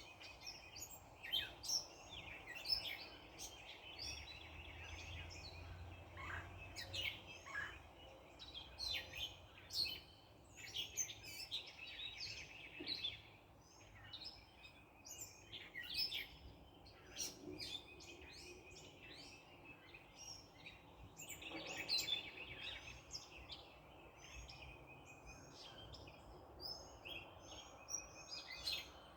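Backyard birds chirping and trilling, many short overlapping calls with no let-up. A faint low rumble of distant traffic rises under them twice.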